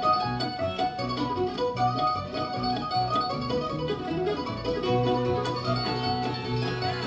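Live bluegrass band playing an instrumental break: quick picked notes on acoustic guitar and mandolin over a steady bass line.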